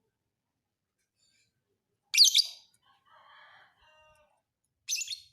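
Lovebird giving two shrill, harsh chirping bursts, one about two seconds in and another near the end. Fainter, softer calls come in between.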